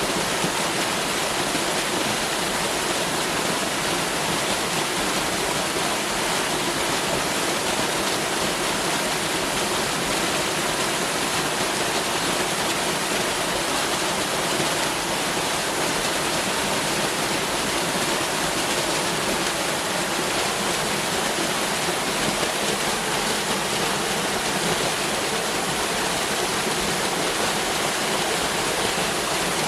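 Waterfall running with a steady, even rush of falling water that does not change.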